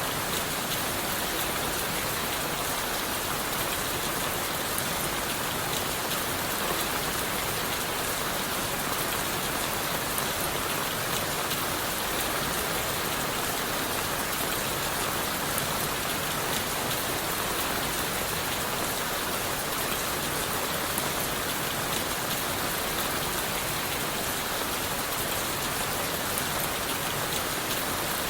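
Steady rain falling on leaves and wood, a dense, even patter of countless drops that does not change.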